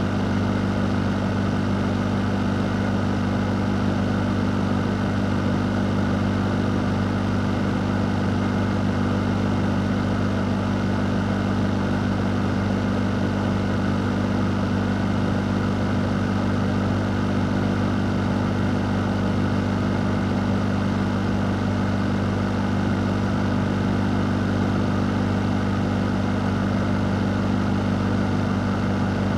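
Electric fan running steadily: an even rush of air over a constant low motor hum, with no change in speed.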